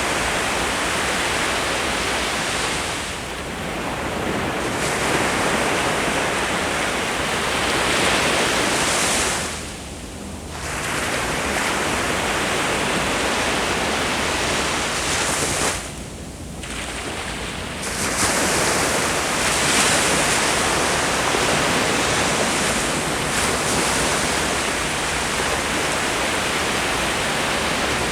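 Ocean waves breaking and washing up the beach in a continuous dense roar of surf, easing off briefly between sets of breakers before swelling again.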